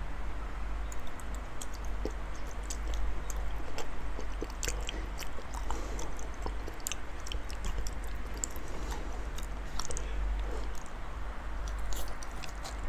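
A person chewing a large mouthful of raw salmon, with scattered short mouth clicks. A steady low hum sits underneath.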